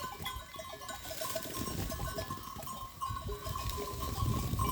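A flock of sheep feeding on apples, with small bell-like clinks repeating over a thin steady ring and low knocks and shuffling.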